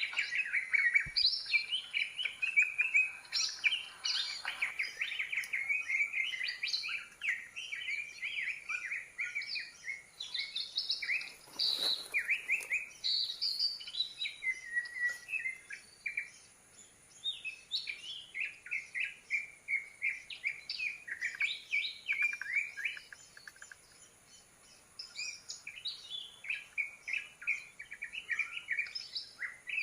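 Songbird calling: a long, busy run of quick chirps and warbling trills, with two short lulls about halfway and two-thirds of the way through. A brief rustling noise cuts in about twelve seconds in.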